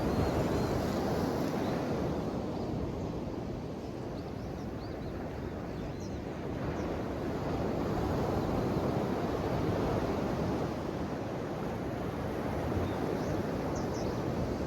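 Ocean waves washing ashore: a steady rush of surf that eases about four seconds in and swells again, with a few faint high chirps near the middle and the end.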